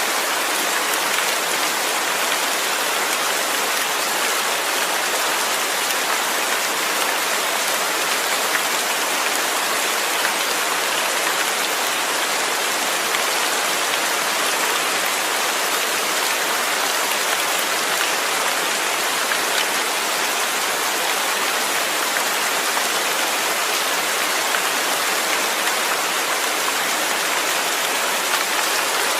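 Steady, heavy rain falling: an even, continuous hiss of many drops with no single drop or gust standing out.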